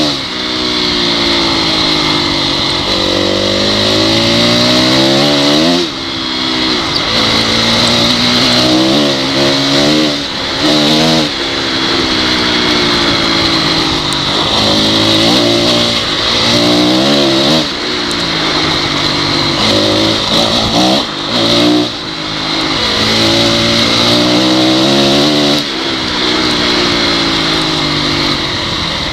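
Honda CRF dirt bike's single-cylinder four-stroke engine running hard, its pitch rising and falling again and again as the throttle is opened and shut, with short dips where it drops off between pulls.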